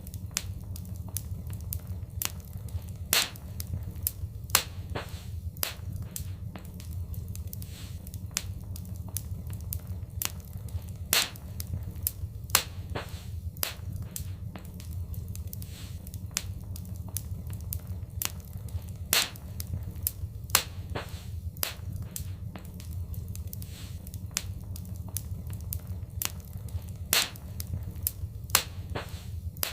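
Wood fire crackling, with irregular sharp pops, a handful of them louder, over a steady low rumble.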